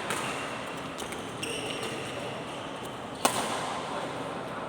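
Badminton rackets hitting a shuttlecock during a doubles rally: a few sharp hits, the loudest about three seconds in.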